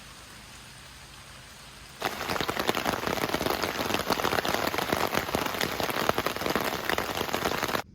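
Rain: a faint steady hiss at first, then about two seconds in a sudden change to much louder rain striking a nearby surface, a dense run of small drop impacts that stops abruptly near the end.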